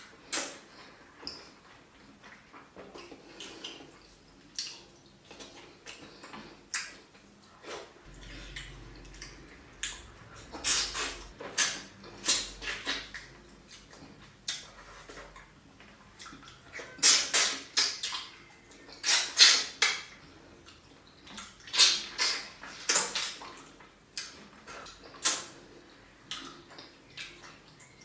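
Close-miked eating of tilapia pepper soup and pounded yam: wet chewing and slurping in short clusters, with occasional clinks against the dish.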